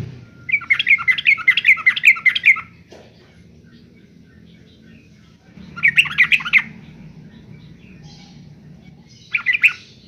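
Yellow-vented bulbul singing its quick, bubbly chattering song in three phrases: a long one of about two seconds near the start, a shorter one around the middle and a brief one near the end.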